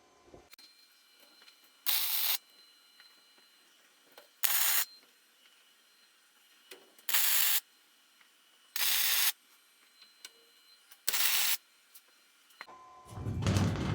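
Five short bursts of hiss, each about half a second long and two to three seconds apart. Near the end a louder, deeper sound starts and builds.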